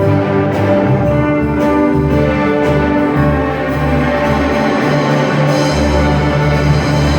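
Orchestral music with strings and brass playing long held chords over a sustained low bass line.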